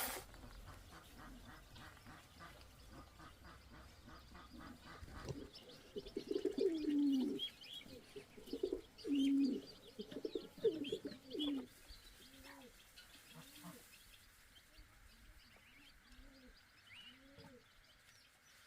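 Birds calling: a run of low, pitched cooing calls that fall in pitch, loudest between about six and twelve seconds, then softer repeated coos, over faint high chirps.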